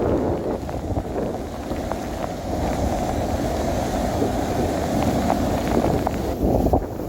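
Strong wind buffeting the microphone over rough sea surf, a loud steady rumble with scattered light ticks.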